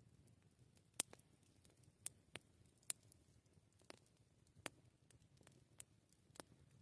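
Campfire wood crackling: sparse, irregular sharp pops, roughly one a second, the loudest about a second in and near the three-second mark.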